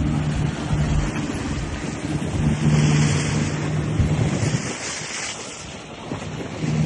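Wind buffeting the microphone over rushing water, with a low steady engine hum that fades for a moment and returns near the end.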